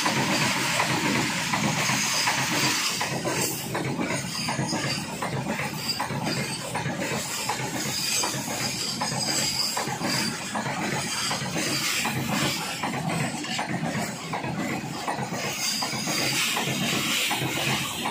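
Freight train of covered boxcars running past close by on the adjacent track: a steady rushing noise of wheels on rail with a dense, continuous clatter.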